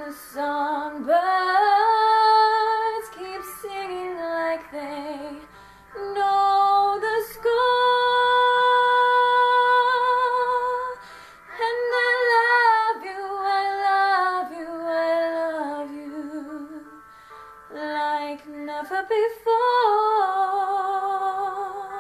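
A woman singing solo, in long held phrases with vibrato and short breaks between them.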